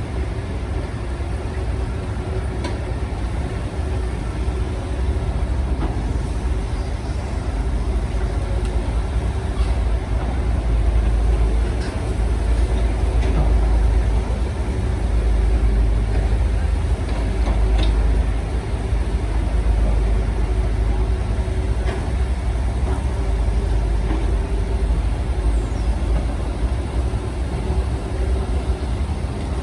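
Diesel engines of heavy earthmoving machines running steadily: a deep rumble with a constant hum above it and a few short knocks.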